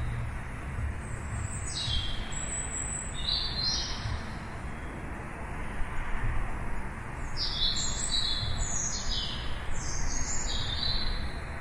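Birds chirping: short, high chirps that slide down in pitch, a few early on and a quick run of several from about 7 to 11 seconds in. A steady low rumble sits underneath.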